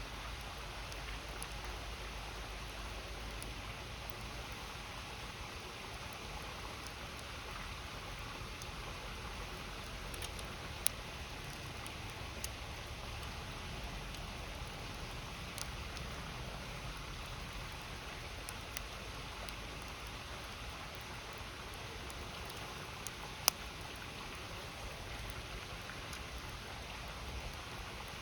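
A river flowing with a steady rush, with a wood fire crackling over it: a handful of sharp pops, the loudest late on.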